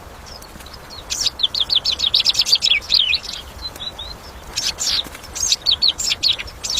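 Small songbird chirping: a fast run of high, quick chirps, many falling in pitch, begins about a second in, followed by a few softer notes and then more bursts of chirps near the end.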